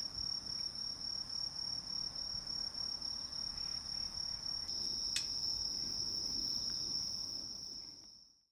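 Crickets singing in a steady, high, continuous trill, with a single sharp click about five seconds in; the sound fades out near the end.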